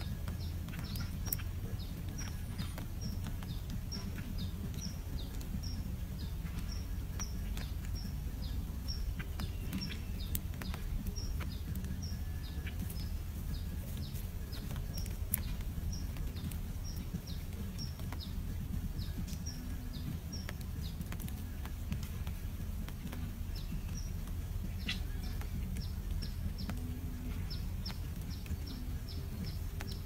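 A small bird chirping: short, high, downward-sliding chirps repeated about twice a second, over a steady low rumble.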